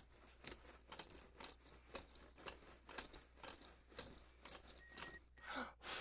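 Faint, irregular rustling and crinkling, many short scrapes a second, like something being handled near the microphone.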